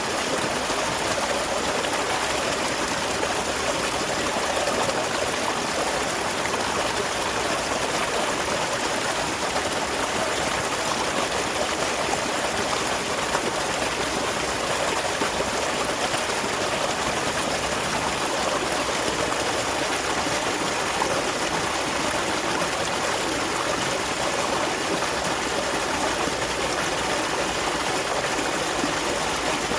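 Small waterfall splashing and running steadily into a stream, an even rush of water.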